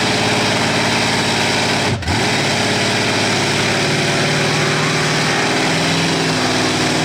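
Mud-bog truck engine running steadily at low revs, with a brief dip about two seconds in.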